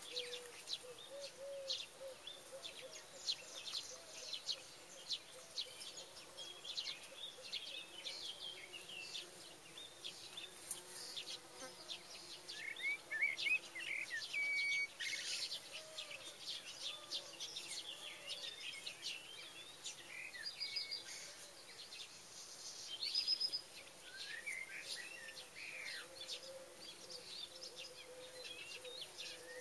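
Small birds chirping and singing in the surrounding trees, with a buzzing insect humming underneath. The chirps come in scattered bursts, loudest about halfway through and again near the end.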